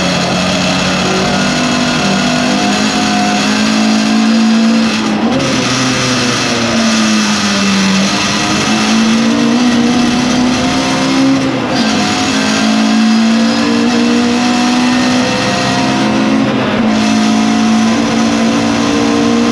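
Lotus Cortina's Lotus-Ford twin-cam four-cylinder racing engine under hard acceleration, heard from inside the cabin. Its note climbs steadily and dips briefly about three times as the driver changes gear.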